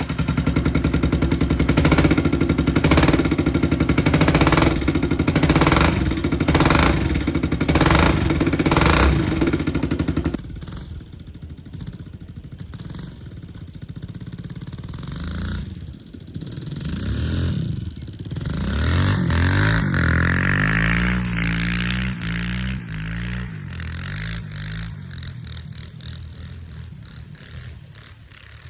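Kawasaki KLX dirt bike's single-cylinder four-stroke engine running loudly and steadily with an even pulse. About ten seconds in it drops suddenly to a quieter sound, then rises and falls in pitch several times as it is revved or ridden, fading near the end.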